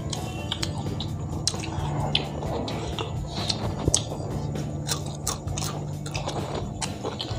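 Two people chewing and smacking on fried fish eaten by hand, a run of short wet clicks and smacks, with soft background music under it.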